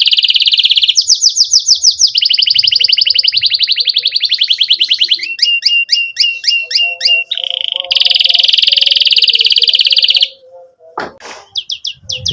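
Domestic canary singing in fast, loud trills: long runs of rapidly repeated high notes that change speed and pitch every second or two, with a chopped, chirping section in the middle. The song breaks off about ten seconds in, a short sweeping note follows, and the trilling starts again near the end.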